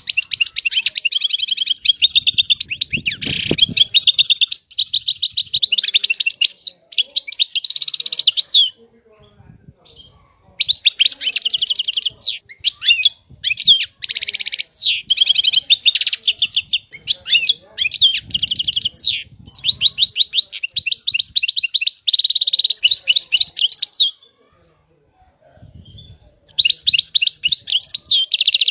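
European goldfinch singing: long runs of rapid twittering and trilled notes, broken by two short pauses of about two seconds.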